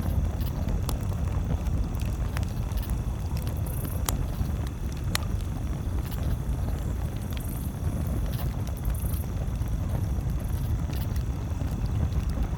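Campfire crackling: scattered sharp pops and ticks at irregular intervals over a steady low rumble.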